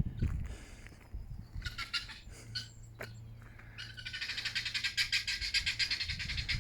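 Guinea fowl calling: a short harsh burst about two seconds in, then a rapid, rattling chatter of quickly repeated notes from about four seconds in.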